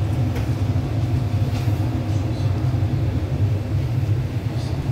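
MTR East Rail line R-Train electric multiple unit running, heard from on board: a steady low rumble with faint steady tones above it and a few light ticks.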